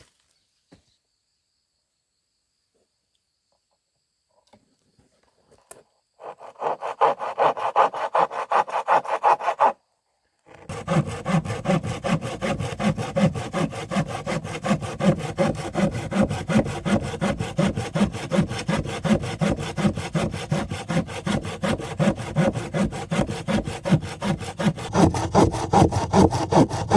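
Hand saw cutting through wood in quick, even back-and-forth strokes. A short run of strokes starts about six seconds in, breaks off briefly, then the sawing resumes and keeps going steadily.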